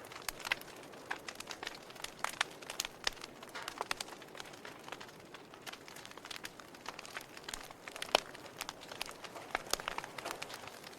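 Wood fire burning in a fireplace, with frequent irregular crackles and pops over a soft hiss. One louder pop comes about eight seconds in.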